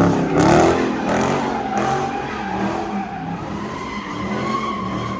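A car spinning its tyres in a street-takeover pit: the engine held at high revs while the tyres squeal steadily, loudest in the first second.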